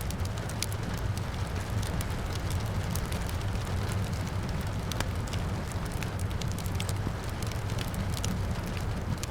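Wood fire crackling with frequent sharp pops and snaps over a steady low rumble, with rain falling outside.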